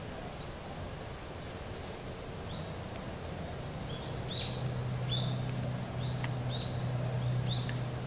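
A small bird calling: a series of short, sharp chirps, roughly two a second, starting a couple of seconds in, over a low steady hum that grows louder about halfway through.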